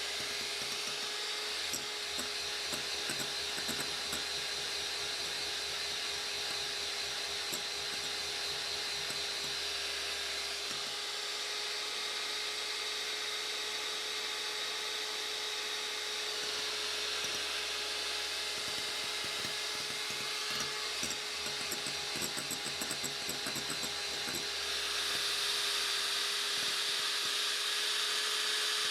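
Electric hand mixer running steadily at high speed, its beaters whipping eggs and sugar into foam, with occasional light ticking; it gets louder near the end.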